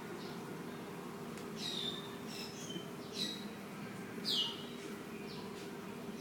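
Birds chirping: about five short, sharp calls that drop in pitch, spaced a second or so apart, the loudest about two-thirds of the way through, over a steady low hum.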